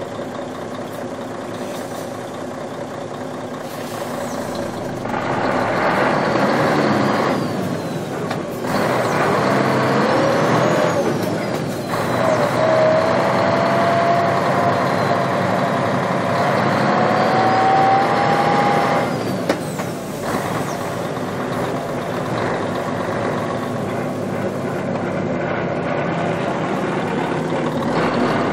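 Truck engine running and pulling away under acceleration, heard close on board, with the revs building and then dropping at gear changes about 8, 12 and 19 seconds in. A thin whine rises slowly in pitch as it pulls through the middle gear.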